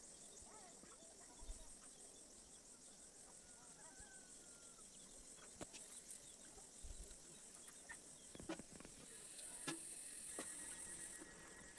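Faint steady high-pitched insect chirring, crickets or similar, with a few scattered soft clicks; the insect sound swells a little near the end.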